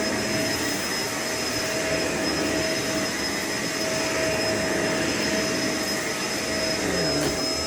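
Vacuum cleaner motor running steadily, a constant rushing noise with a steady high whine.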